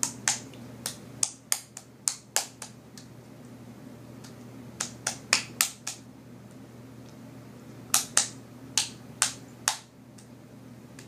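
Flarp noise putty being squished and pulled in its container, giving short, sharp sticky pops and clicks in three quick bursts.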